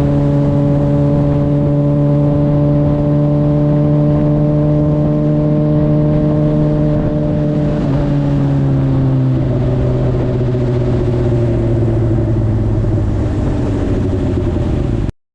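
Suzuki GSX-R600 inline-four engine running at a steady pitch, then dropping in two steps about eight and nine and a half seconds in and easing down slowly as the bike slows. The sound cuts off abruptly near the end.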